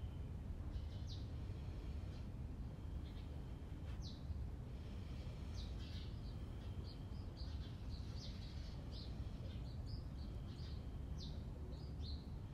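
Small birds chirping and calling, short sharp high notes repeated many times and busier from about halfway, over a steady low background rumble.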